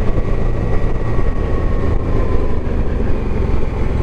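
Motorcycle running on a mountain road, heard from the rider's onboard camera: a steady low rumble, with a faint engine whine falling slowly in pitch.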